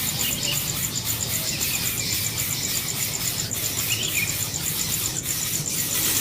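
An insect trilling in a rapid, even high pulse, with short bird chirps every second or two over a steady background hiss.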